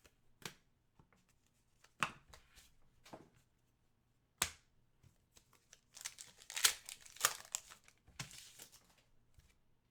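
Trading card pack wrappers being torn open and crinkled, with a few sharp snaps of cards and packs being handled and a busier stretch of tearing and crinkling a few seconds in.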